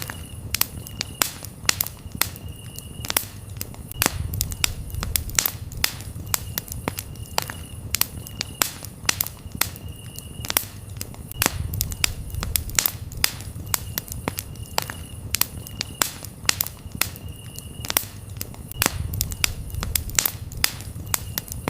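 Campfire crackling with frequent sharp pops and snaps over the low rumble of the flames. Crickets chirp in short high trills every second or two.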